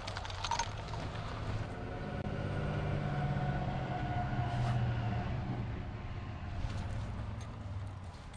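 Engine of a passing motor vehicle: a low hum that grows louder over the first few seconds and then fades away.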